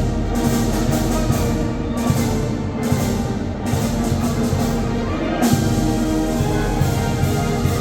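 Oaxacan Mixe village brass band (banda filarmónica) playing: sustained brass and wind lines over steady drum beats.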